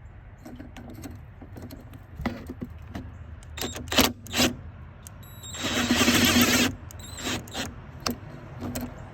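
Scattered metallic clicks and knocks of hand work on a car's coolant hose connections as the hose is taken off, with a rough scraping rush lasting about a second about six seconds in.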